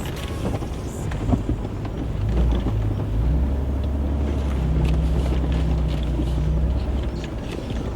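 Truck engine running under load as the truck crawls along a rough dirt trail; the engine note shifts and grows louder a couple of seconds in. Scattered knocks and rattles come from the bumpy ride.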